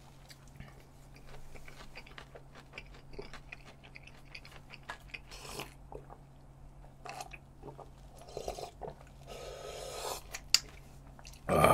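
Close-miked chewing of a mouthful of corn salad, with soft crunching and wet mouth clicks, followed by drinking from a cup with a short slurp near the end.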